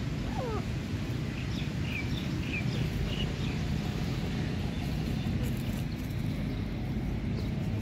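Short bird chirps, a quick run of high notes about one to three seconds in, after a single falling whistle near the start, over a steady low rumble.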